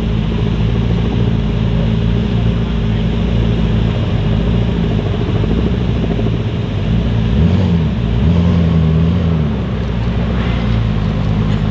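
Koenigsegg Jesko Absolut's twin-turbo 5.0-litre V8 idling steadily. About two thirds of the way in it is blipped twice, the second rev held for about a second before dropping back to idle.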